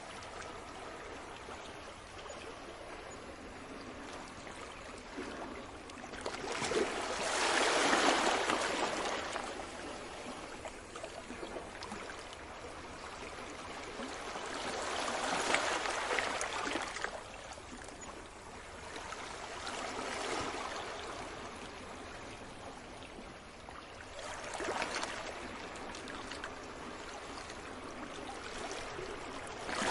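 Sea waves washing onto the shore: a steady rushing hiss that swells with each incoming wave and falls back, about five surges, every five to eight seconds.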